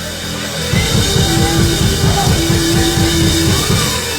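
Live band playing: held chords over a fast, steady run of drum strokes that starts about a second in.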